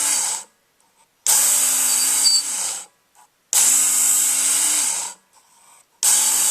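Work Sharp electric belt knife sharpener running in short bursts of about a second and a half, stopping between them. Its motor hums while the abrasive belt grinds the steel edge of a knife blade, one sharpening pass per burst. One burst ends just after the start, and three more follow.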